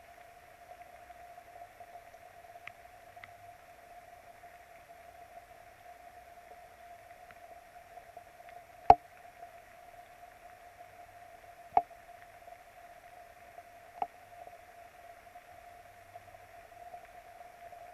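Steady rain hiss on an outdoor nest camera's microphone, over a constant hum. Three sharp knocks come about halfway through and then twice more a few seconds apart.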